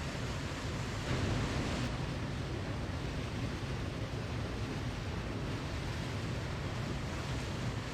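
Waterfall: steady rushing water, briefly a little louder about a second in.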